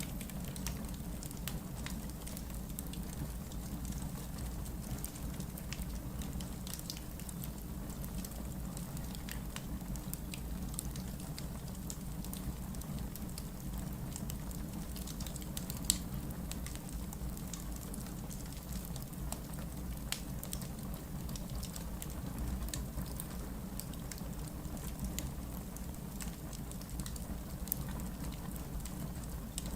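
Wood logs burning in a fireplace, crackling with many scattered small snaps and one sharper pop about halfway through, over a steady low rumble.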